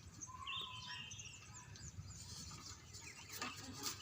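Faint chirping of small birds, a run of short quick calls in the first half, over a low steady background rumble, with a couple of soft knocks near the end.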